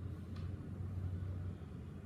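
Steady low background rumble, with one brief faint tick about a third of a second in.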